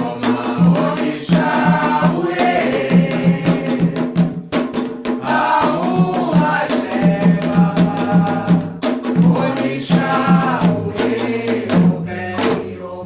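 A ritual chant for the orixás, sung by voices over drums and a rattle, in the manner of a Candomblé song. It fades out near the end.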